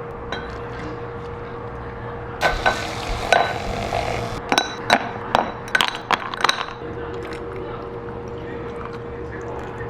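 Hard objects clinking and knocking about a dozen times with a short ring, clustered in the middle few seconds, over a steady low hum.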